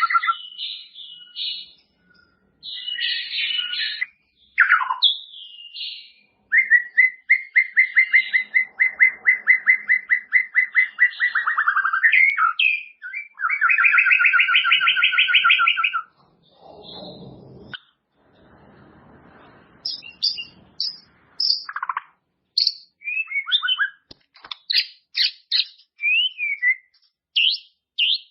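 White-rumped shama (murai batu) singing a varied song: long runs of rapid repeated trilled notes, then a string of clear short whistles and quick pitch glides. There is a brief noisy rustle a little past the middle.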